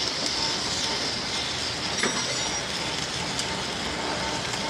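Steady mechanical noise with a faint steady hum and a few sharp metallic clicks, about two and three and a half seconds in.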